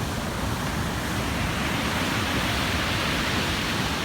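Storm waves on the Black Sea breaking and rushing up the shore: a steady roar of surf that swells as a wave crashes about two seconds in.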